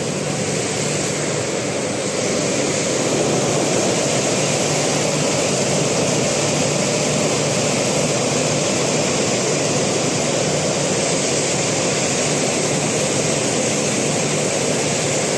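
Glass washing machine running: a steady mechanical hum under a loud, even hiss. It grows a little louder about two seconds in.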